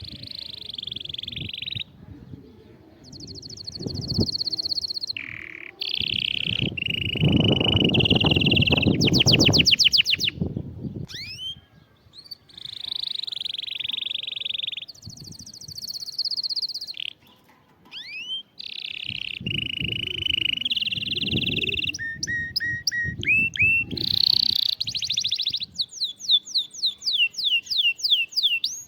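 Domestic canary singing a long, varied song of fast trills and rolling runs of repeated notes, phrase after phrase with short pauses between. A low rumble sits beneath the song for a few seconds about seven seconds in, the loudest part.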